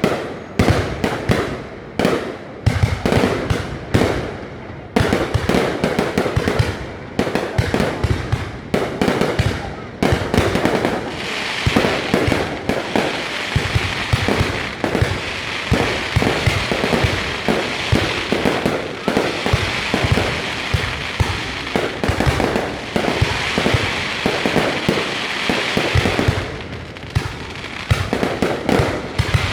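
Fireworks display: shells bursting in rapid, overlapping bangs and pops, with a steadier hiss of noise joining from about eleven seconds in.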